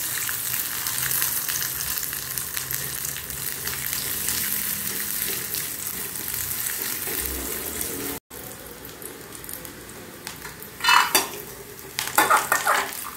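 Small pieces of coconut frying in hot ghee in a metal pan: a steady crackling sizzle, fainter after a break about eight seconds in. Near the end a metal ladle scrapes and knocks against the pan a few times as the roasted pieces are scooped out.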